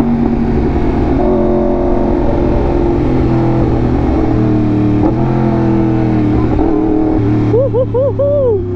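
Yamaha R1M crossplane inline-four, through an SC Project exhaust, running hard at speed, its note stepping in pitch several times. Near the end the rider whoops excitedly over the engine.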